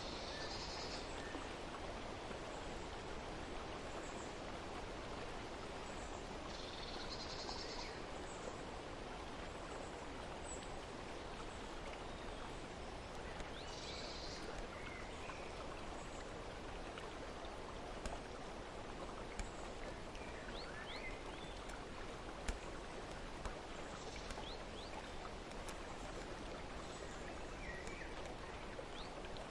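Steady running-water ambience with a few short, high bird chirps and trills scattered through it. A handful of faint sharp clicks come in the second half.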